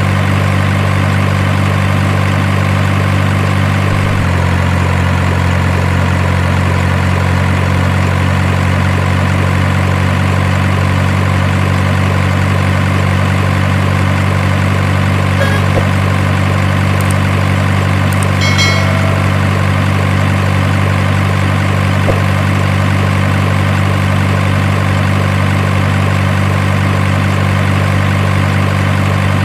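Truck engine idling steadily, with a slight shift in pitch about four seconds in and a few faint short high beeps near the middle.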